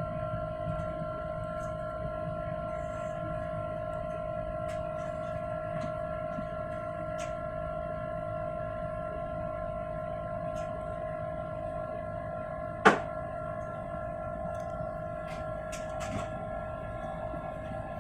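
Airliner cabin noise during the climb: the jet engines' steady drone with a held whine of several steady tones over a low rumble. A single sharp click about thirteen seconds in.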